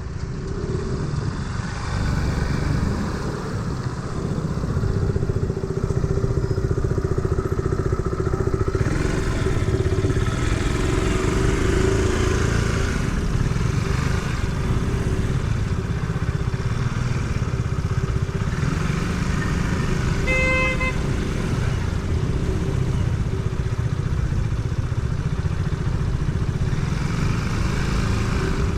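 Motor scooter engine running at road speed with wind and tyre noise, with a short beep about two-thirds of the way through.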